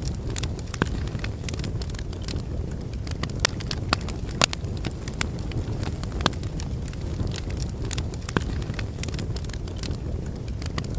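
Wood fire burning in a fireplace: a steady low rumble of flames with irregular sharp crackles and pops from the logs, the loudest pop about four and a half seconds in.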